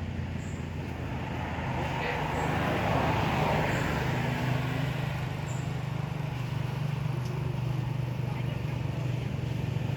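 A vehicle engine running steadily with a low hum, with a rushing noise that swells around three seconds in.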